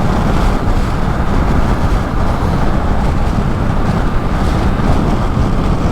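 Motorcycle under way on a road: steady engine and rushing wind noise, with no change in pace.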